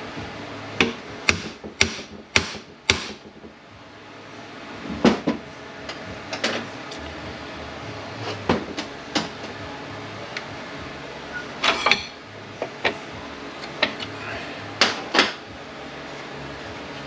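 Sharp metallic knocks and clinks of tools and parts during teardown of a ZF 9HP48 automatic transmission: five quick strikes in the first three seconds, then scattered single knocks, over a steady shop hum.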